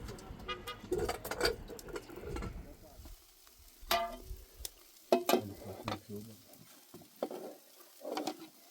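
Stones being handled and set in place: a string of irregular knocks, sharp clacks and scraping, some clacks ringing briefly, the loudest about four and five seconds in.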